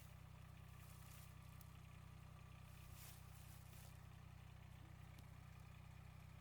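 Kubota diesel engine in a Suzuki Carry mini truck idling steadily and faintly, with brief rustling noises about one and three seconds in.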